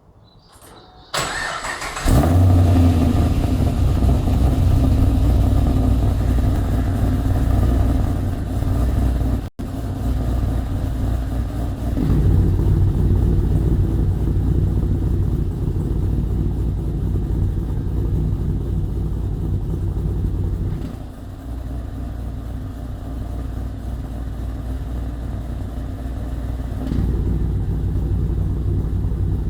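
Cammed, supercharged Holden VE Commodore V8 started about two seconds in, then idling through a 3-inch stainless Xforce Varex valved exhaust. The exhaust note steps quieter a little after the middle and louder again near the end as the exhaust valve is switched closed and open.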